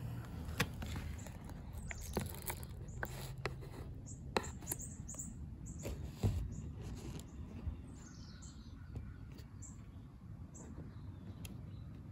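Small birds chirping in short, high calls, a run of them through the middle, over scattered light clicks and rustles of handling.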